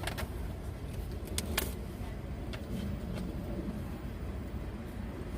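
Steady low rumble of a car idling, heard from inside the cabin, with a few light clicks.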